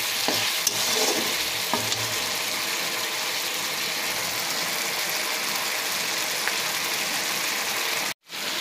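Onion, capsicum and tomato masala sizzling steadily in hot oil in a kadai, with a spatula scraping and stirring through it in the first couple of seconds. The oil has separated from the masala, the sign that the kosha frying stage is done. The sound drops out for a moment near the end.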